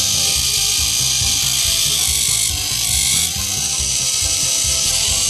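Plarail toy train's small electric motor and gear train running: a loud, steady whirring rattle that switched on just before and holds unchanged. Background music with a steady beat plays underneath.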